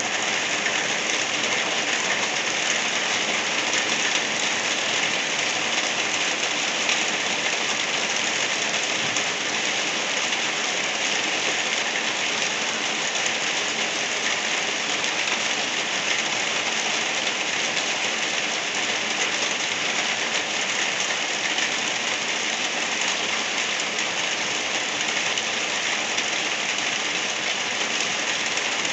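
Light rain falling steadily, an even hiss that does not change.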